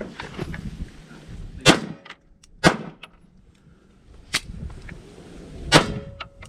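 Four gunshots at a measured pace, one to one and a half seconds apart.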